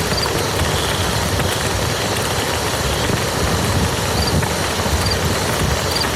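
Steady rain falling on a muddy field: an even hiss with a low rumble underneath, and faint short high chirps now and then.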